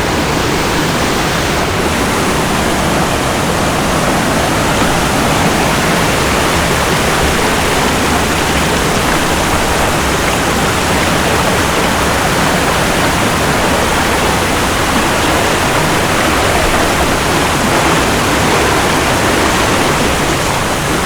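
Waterfall rushing close by, a loud, steady, even roar of falling water.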